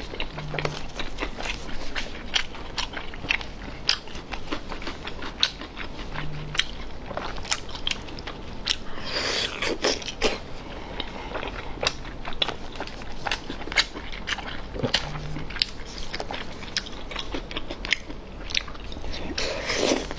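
Close-miked chewing of sticky braised pork belly: wet mouth smacks and quick clicks, several a second, with a denser stretch of biting about halfway through.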